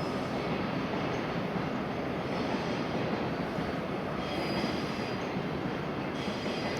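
E1 series Max double-decker Shinkansen train at the platform: steady train noise, with faint high squeals coming and going a few times.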